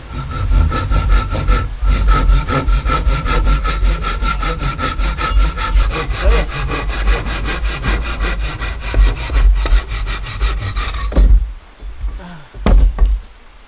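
Hand saw cutting wood in fast, even back-and-forth strokes, with a short break about two seconds in. The sawing stops about eleven seconds in, and a low thump follows near the end.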